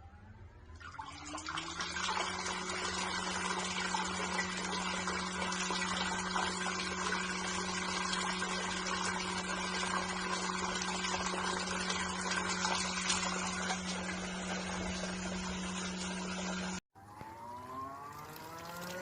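Folding mini washing machine running: a steady motor hum under loud churning, rushing water, which comes in about a second in after the motor winds up. Near the end the sound cuts off abruptly, and a motor spins up again with a rising whine.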